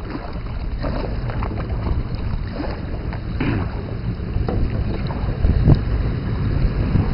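Steady low rumble of a boat moving across a lake, with wind buffeting the microphone.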